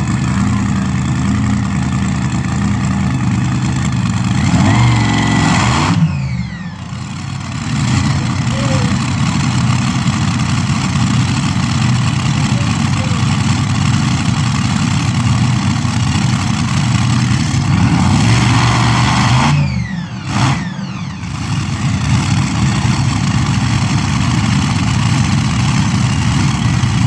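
A pulling vehicle's engine running hard. It rises in pitch twice, about five seconds in and again near twenty seconds, and each time drops off suddenly.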